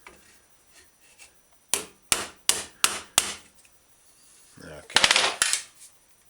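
A ball-peen hammer strikes a dented steel bicycle fender to knock the dent out: five sharp strikes about a third of a second apart, then a quick flurry of rapid taps about five seconds in.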